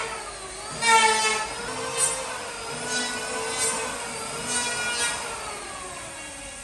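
Power-tool whine in woodworking, a pitched tone with harmonics whose pitch slowly wavers up and down, with a louder, brighter squeal about a second in.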